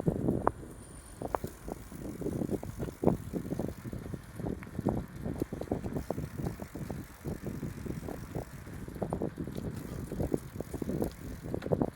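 A bicycle being ridden over a bumpy track, rattling with a dense run of irregular knocks and bumps.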